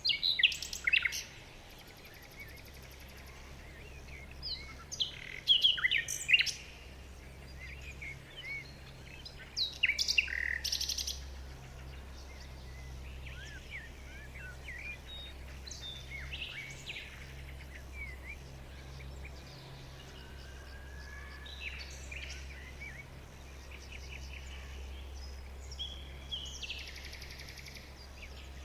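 Birds chirping and singing in short calls and trills, loudest in clusters near the start, around five to six seconds in and about ten seconds in, with fainter calls after that, over a low steady hum.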